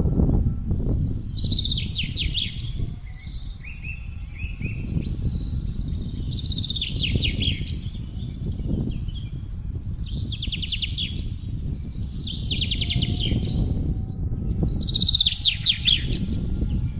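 Wind gusting in a low rumble, with a songbird singing short, rapid trilled phrases every two to three seconds.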